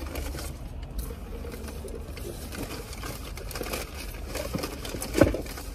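Mouth sounds of people eating fried chicken sandwiches: scattered soft chewing clicks and smacks over a low steady hum, with a short hummed 'mm' about five seconds in.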